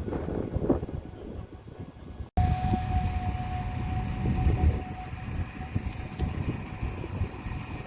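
Large harvesting machinery running, a dense low engine and machine rumble. A little over two seconds in the sound drops out for a moment, and after that a steady high whine runs above the rumble for a few seconds before it fades.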